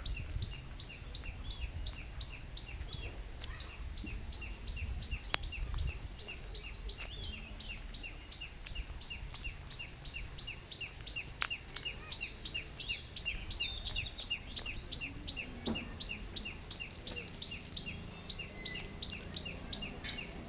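A bird repeating a short, sharp call over and over, very evenly at about four calls a second, over a steady high-pitched hiss and a low rumble.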